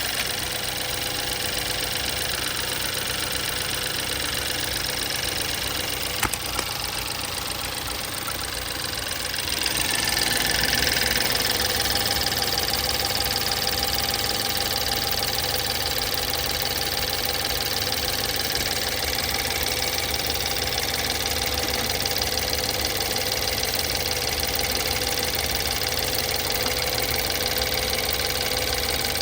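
BMW N20 2.0-litre turbocharged four-cylinder engine idling steadily. About ten seconds in, the sound grows louder and brighter, with a single click a few seconds before.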